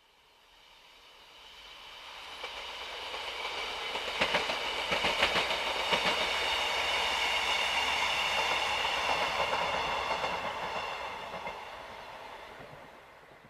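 Two-car diesel multiple unit passing by on the Marston Vale line, building up, going by and fading away. About four to six seconds in, a run of wheel clicks over the rail joints (clickety-clack).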